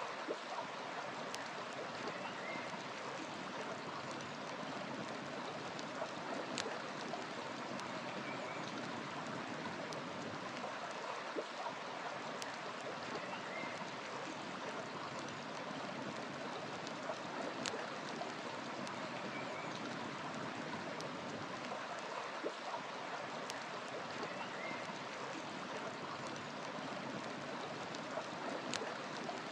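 A river flowing steadily, with a wood fire crackling and giving off an occasional sharp pop. Faint bird chirps come in now and then.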